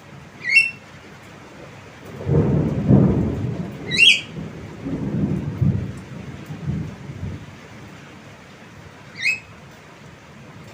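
Three short, rising calls from a Javan myna, spread several seconds apart, with a low rumble lasting several seconds between the first two calls and after them.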